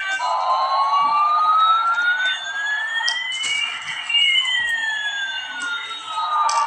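Electronic sound effect from a battery-powered toy airplane: two siren-like tones slide slowly in opposite directions, one rising and one falling, crossing about halfway through, between bursts of its beeping electronic tune.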